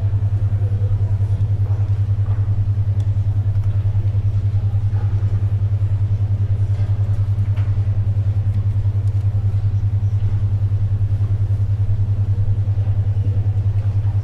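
A steady low hum pulsing rapidly and evenly, about ten times a second: a 10.2 Hz alpha-wave brainwave tone. Beneath it is faint library ambience with the soft rustle of pages turning and pencil writing.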